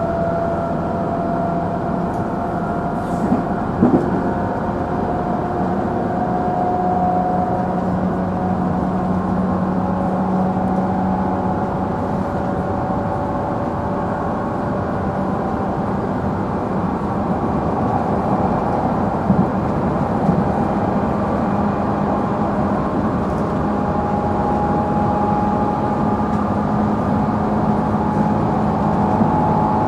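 Interior running sound of a JR Central 311 series electric train car at speed: steady traction-motor hum with tones that drift slightly in pitch over the rumble of the wheels. A few short knocks from rail joints come through, near 4 s and again near 20 s.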